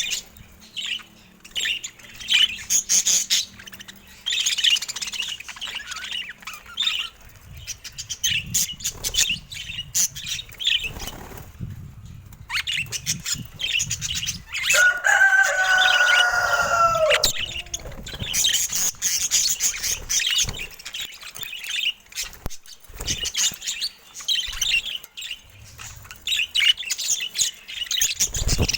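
Budgerigars chirping and chattering in quick, busy bursts, with scattered sharp clicks and taps. About halfway through, one longer, lower call is held for a couple of seconds and dips slightly in pitch.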